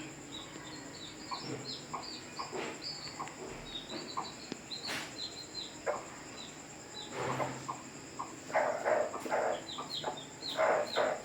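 Young chicks peeping over and over in short, high, falling notes, several a second. Near the end there are a few louder, lower bursts of hen clucking.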